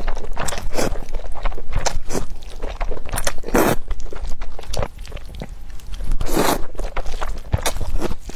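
Close-miked mukbang eating sounds of spicy fire-chicken (Buldak) noodles: an irregular run of wet, crunchy bites, chewing and scrapes.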